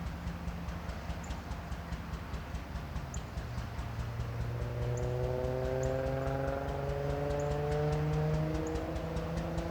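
Diesel locomotive engine running with a steady hum and a fast, even ticking; from about halfway through it throttles up, its pitch rising slowly.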